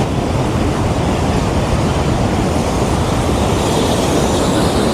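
Waterfall: water falling with a steady, even rush.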